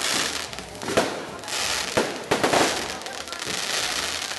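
Aerial fireworks bursting overhead: several sharp bangs about a second apart, over a steady crackling hiss.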